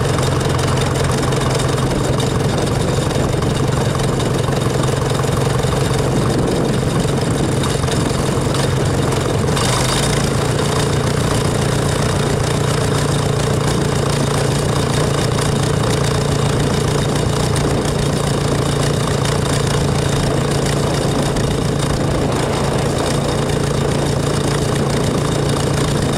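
Tractor engine running at a steady speed, a constant unchanging drone, with a brief rush of noise about ten seconds in.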